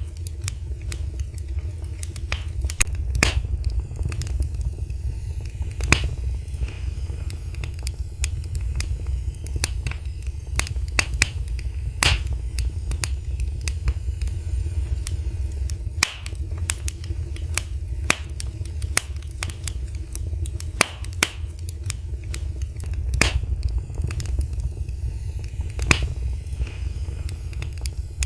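Wood fire crackling in a fireplace: irregular sharp pops and snaps, several a second with louder ones every few seconds, over a steady low rumble of the burning.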